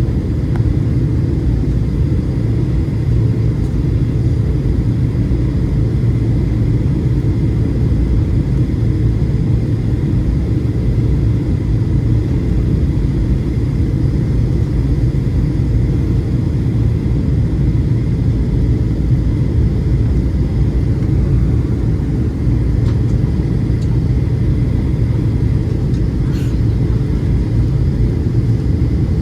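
Steady low rumble of a Boeing 737-700's CFM56 engines and airflow, heard from inside the passenger cabin, with a faint steady high tone over it.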